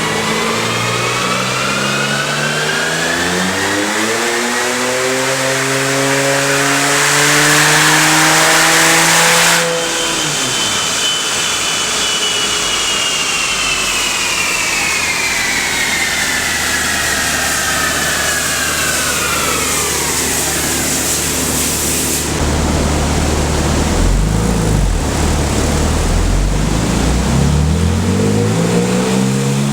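Porsche 997 Turbo's twin-turbo 3.6-litre flat-six on a chassis dyno, making a full-throttle pull: the revs climb steadily for about ten seconds and get loudest near the top, then the throttle shuts suddenly. The engine coasts down, its pitch and a high whine falling together over about ten seconds, then settles to a low rumble with a few rev rises near the end.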